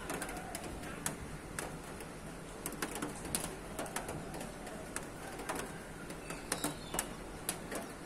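Several birds calling together, with many short, sharp chirps scattered throughout, over a steady low background rumble.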